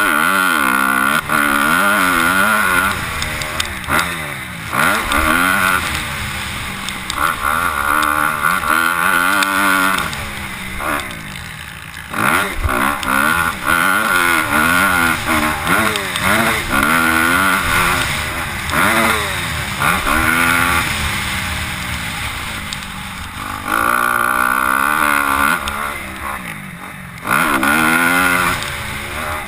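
Motocross dirt bikes riding a track, their engines revving up and falling back over and over as the throttle is opened and shut, with more than one bike heard at once.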